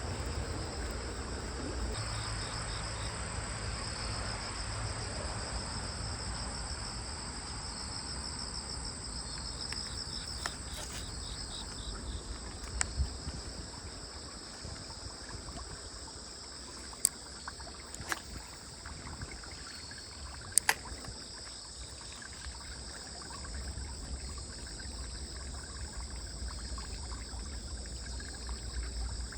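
Insects, crickets, chirring steadily in high-pitched trills over a low outdoor rumble, with a few sharp clicks in the second half.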